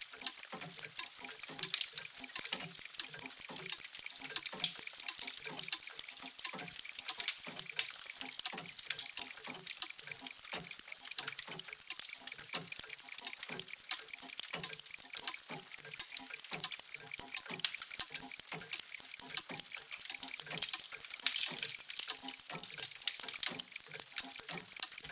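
Many mechanical clocks ticking out of step with one another, a dense, steady stream of overlapping ticks with softer, lower tocks among them.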